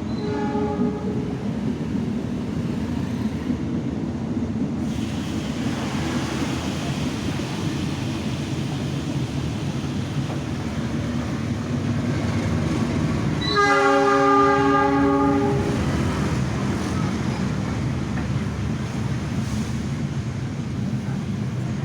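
A train running past with a steady rumble. Its horn gives a short note at the very start and a louder blast of about two seconds a little past halfway.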